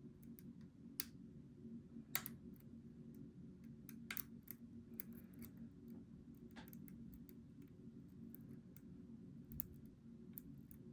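Small sharp metallic clicks of lock picks working the pins of a Goal V18 lock, a handful of irregularly spaced clicks over a steady low hum.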